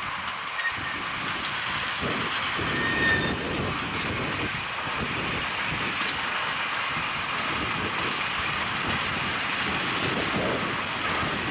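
Diesel train running along the track, a steady rumble of wheels on rail.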